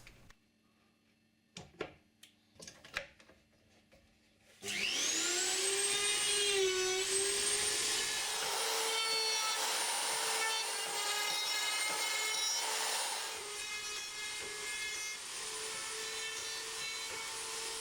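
An electric power tool motor switched on about four and a half seconds in, whining up in pitch as it comes to speed and then running steadily, a little quieter near the end. A few faint clicks come before it starts.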